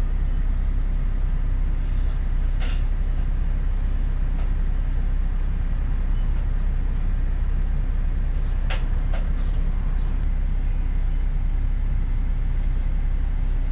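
Car engine idling, a steady low rumble heard from inside the cabin, with a couple of short clicks, one a few seconds in and another past the middle.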